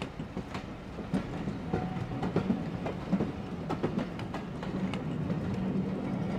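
Heritage railway passenger coaches rolling past, their wheels clicking over rail joints in uneven groups over a steady low hum.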